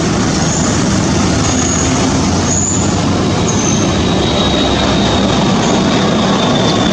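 Waterfall roaring as a loud, steady rush of falling water, with a few short high chirps above it.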